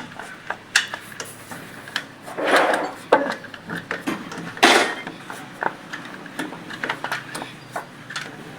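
Metal hand tools clinking and tapping on the valve gear of a Ford 5000 tractor's engine, which is not running, during valve clearance adjustment. Many short sharp clicks, with two brief scraping noises about two and a half and four and a half seconds in.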